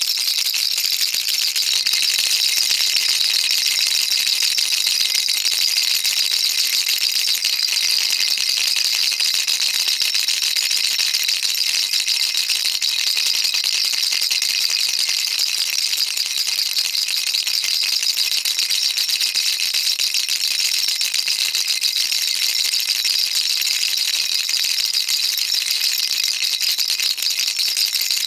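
Baby rattle shaken without pause, a dense, even, high-pitched rattle of small beads.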